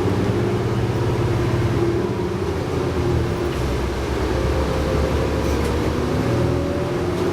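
Cummins ISL9 diesel engine and Allison B500R automatic transmission of a New Flyer D60LFR articulated bus running under way, heard from inside the bus, with a steady low rumble. In the second half a whine rises in pitch.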